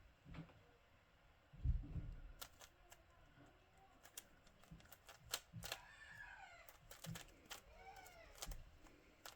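Plastic puzzle cube turned by hand: irregular quick clicks as its layers are twisted, with a louder dull thump about two seconds in.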